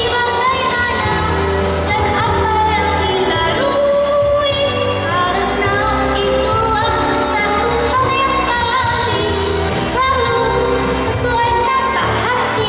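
A young girl singing an Indonesian pop song solo over a pop backing track with a steady beat.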